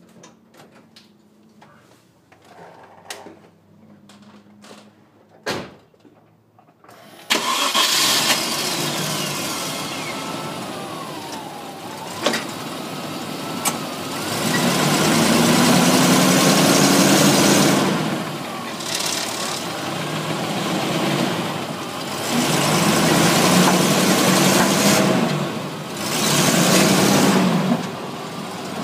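1999 Range Rover's V8 engine starting about seven seconds in, after a few faint clicks, then running with the revs raised and let down three times.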